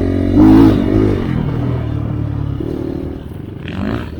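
Enduro dirt bike engine revving under way, its pitch climbing and dropping with the throttle. It is loudest about half a second in, then steadier and quieter toward the end.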